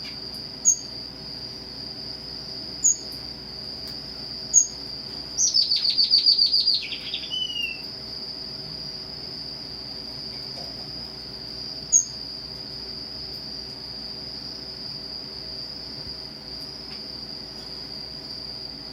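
Strawberry finch (red avadavat) singing. One song phrase comes about five seconds in, a quick run of high notes that ends in a short falling whistle. Single short high chirps come a few times before it and once well after, over a steady high-pitched whine.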